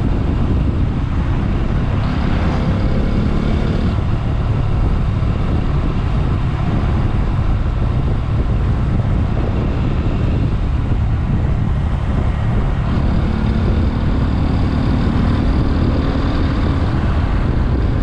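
Motorcycle running at road speed, with heavy wind rush on the microphone and a steady engine hum underneath that stands out more in the last few seconds.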